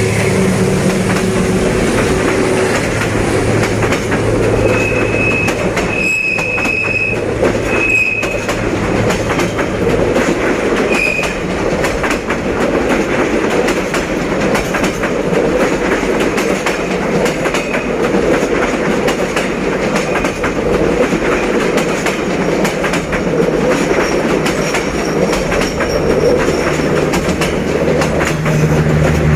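A passenger train hauled by a D19E diesel-electric locomotive rolls past with a steady wheel rumble and clickety-clack on the rails. Brief high wheel squeals come several times in the first ten or so seconds. A low diesel engine drone fades away during the first several seconds.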